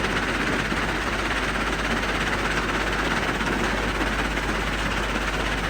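Mobile jaw crusher and excavator running at work in a quarry, a steady, even machine noise with no distinct impacts.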